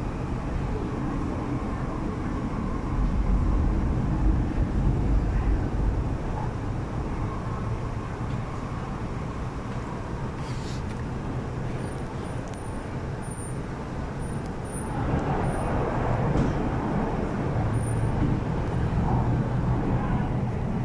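MTR East Rail R-Train electric multiple unit running between stations, heard from on board: a steady rumble of wheels and running gear with a low hum, growing louder about fifteen seconds in.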